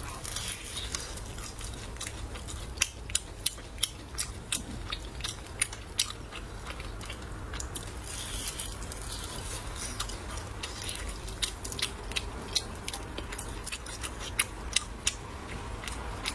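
A person biting and chewing a pan-fried chive, egg and glass-noodle pastry with a crisp fried crust. Irregular sharp crunches come in clusters, thickest a few seconds in and again in the last few seconds.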